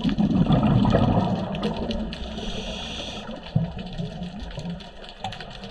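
Scuba diver's regulator underwater: a burst of exhaled bubbles rushing for about two seconds, then a short hissing inhale, with faint crackling clicks.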